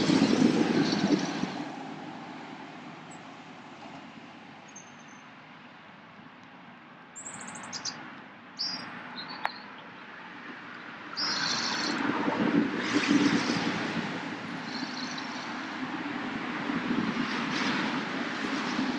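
Small birds chirping a few short calls around the middle, over a rushing noise that swells and fades three times.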